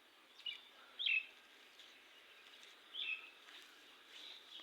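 Small birds chirping in the morning: a few short, high chirps about half a second, one second and three seconds in, with fainter calls near the end over a faint outdoor background.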